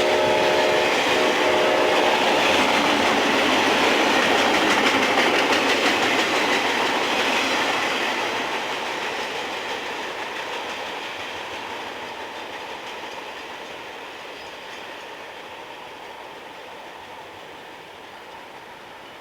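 Train rolling past on the track, its cars and wheels loud and steady at first, then fading gradually over the last ten seconds as it moves away.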